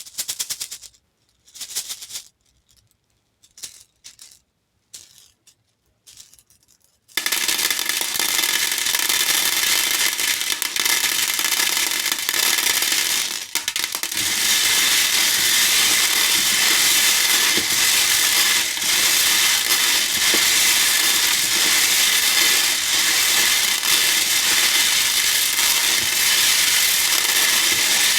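Hair beads clicking in a bowl: a few scattered clicks with quiet gaps, then about seven seconds in a continuous, dense rattle as the beads are poured or stirred.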